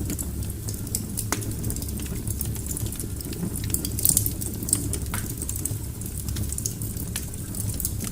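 Wood fire burning in a fireplace: a steady low rumble of the flames with irregular sharp crackles and pops from the burning logs, a brief cluster of louder pops about four seconds in.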